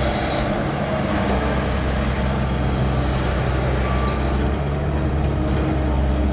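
Heavy diesel engines of a dump truck and a loading excavator running steadily: a continuous low engine hum with even rumble.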